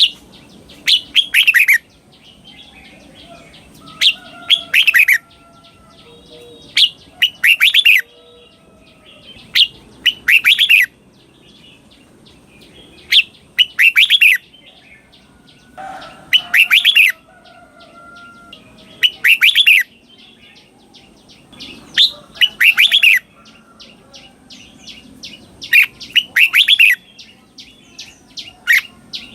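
Red-whiskered bulbul singing its doubled song: a short, loud phrase of quick notes given twice in close succession, repeated about every three seconds.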